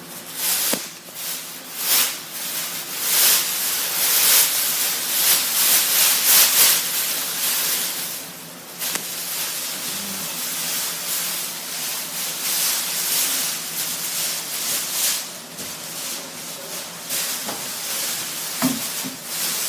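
Polyethylene packing film rustling and crinkling as it is handled and spread out, in irregular swells.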